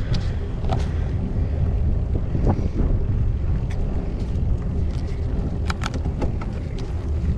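Wind buffeting a GoPro action camera's microphone while cycling, a steady low rumble with scattered sharp clicks and rattles from the moving bike.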